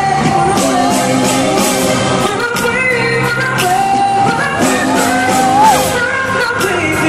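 Live concert performance of a slow pop ballad: a voice singing a melody over the band, recorded in a large hall.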